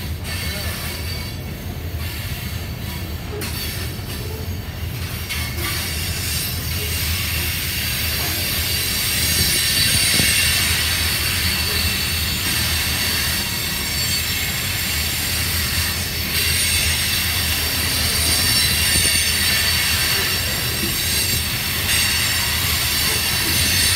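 Covered hopper cars of a freight train rolling past: a steady low rumble of wheels on rail, with a high-pitched wheel squeal that grows louder about six seconds in and holds.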